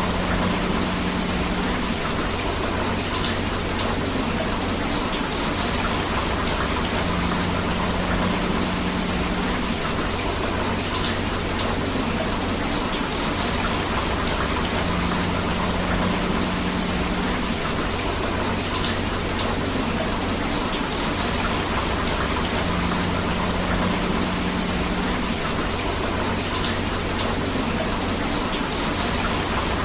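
Steady rain falling together with a flowing river, a dense even rush of water. Faint details in it recur about every eight seconds.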